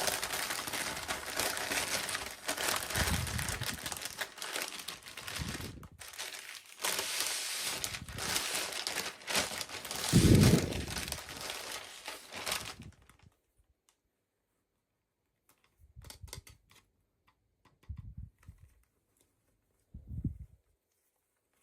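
Packaging crinkling and rustling as a toy is unwrapped, with a single thump about halfway through. The rustling stops about two-thirds of the way in, leaving a few brief rustles.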